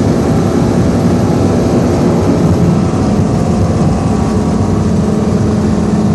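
Race boat engine running loud and steady.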